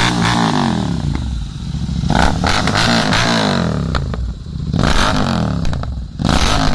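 Motorcycle engine revved repeatedly, the pitch rising and falling about four times.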